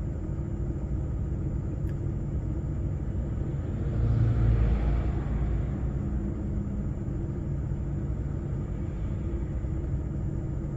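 Steady low engine and road rumble heard from inside a lorry's cab, swelling louder for about two seconds near the middle.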